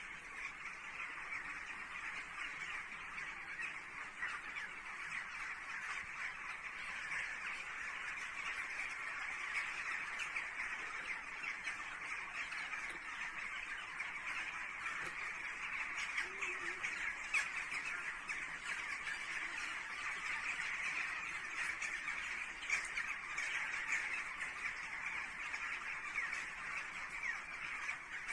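A large flock of birds calling all at once, a dense, unbroken din of many overlapping cries with single sharper calls standing out here and there.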